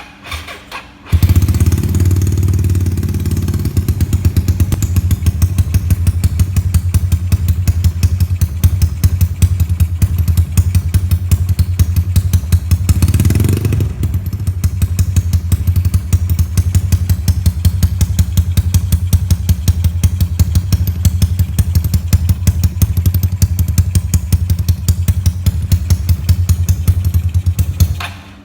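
Yamaha Mio 155cc scooter engine through an aftermarket SPS exhaust, starting about a second in and idling with a steady, even exhaust pulse while it warms up. A short throttle blip just after the middle, then the engine cuts off suddenly near the end.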